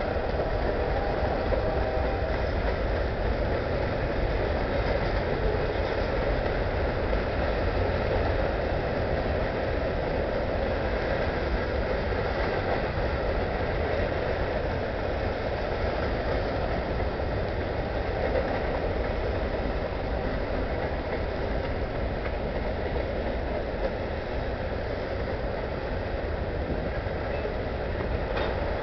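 Covered grain hopper cars of a freight train rolling past, their steel wheels running on the rails in one steady, unbroken noise.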